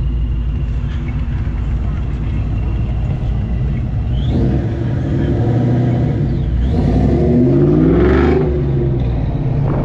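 Car engine running, then accelerating: its note climbs steadily in pitch and drops suddenly just past eight seconds, as at a gear change, before settling lower.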